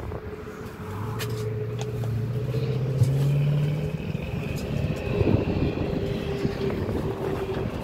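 A motor vehicle's engine running, its pitch rising over a few seconds as it speeds up and then fading, with a steady hum underneath.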